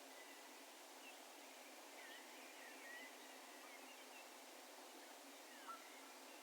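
Faint, distant bird calls: thin high whistles with short pitch glides, one sliding downward near the end, over a steady low hiss of open-field ambience.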